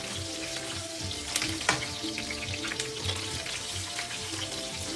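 Cubed potatoes sizzling and crackling as they fry in hot olive oil with garlic and cumin, with two sharp clicks about a second and a half in.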